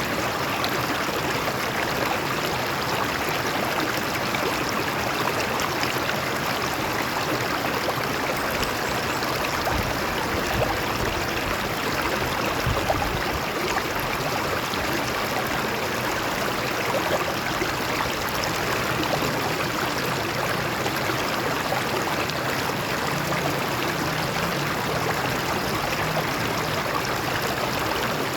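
A stream of water flowing and splashing over rocks, a steady rushing with small gurgles and splashes.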